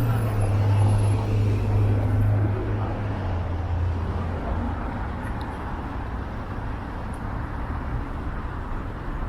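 Street traffic: cars passing, with a low engine hum that is loudest for the first four seconds or so and then fades.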